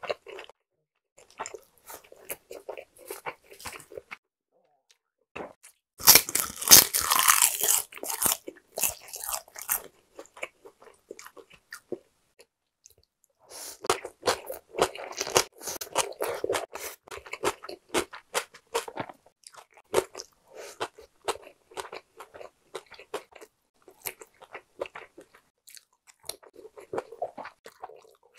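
Close-miked eating: chewing and crunching in separate mouthfuls with short pauses, the loudest a crisp crunching about six seconds in. From about fourteen seconds in, a mouthful of crunchy julienned raw radish salad (mu-saengchae) is chewed.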